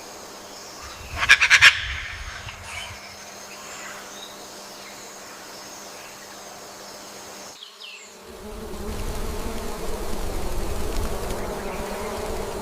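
Insects buzzing in jungle ambience, with a brief loud run of rapid chirps about a second in. Near the middle it cuts abruptly to a louder, fuller ambience with a low rumble.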